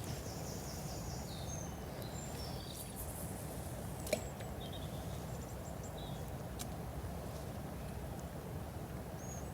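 Steady low outdoor rumble with small birds chirping and whistling now and then in the background, and one sharp click a little after four seconds in.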